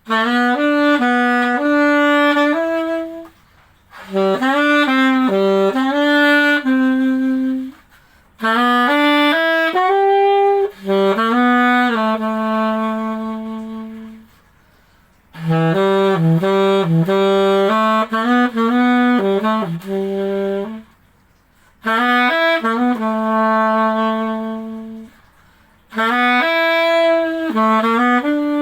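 Chateau VCH-A920 MZ saxophone played solo and unaccompanied, with a dry, natural tone and no effects: six short melodic phrases, each ending on a held note, with brief pauses between them.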